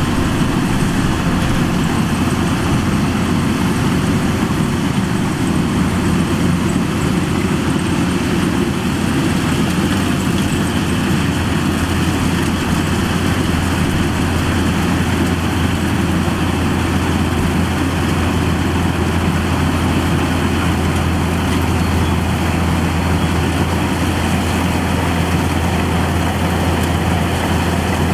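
Kubota DC-105X combine harvester's diesel engine running steadily, a constant low drone that does not rise or fall.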